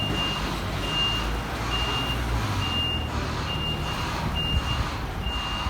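Truck reversing alarm beeping steadily at one pitch, about one beep a second, over the low drone of the truck's engine.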